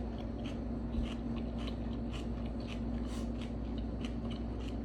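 A person chewing food, with irregular soft mouth clicks several times a second, over a steady low hum; a light thump about a second in.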